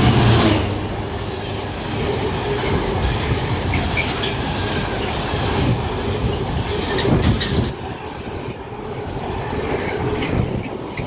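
A Freightliner Class 66 diesel freight locomotive passing close by, its engine hum loudest at the start. A long rake of freight wagons follows, rolling past with wheels clicking over the rail joints.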